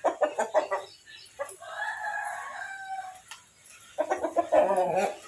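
Chickens calling: a run of short clucks, then one long drawn-out crow about a second and a half in, then more loud calling near the end.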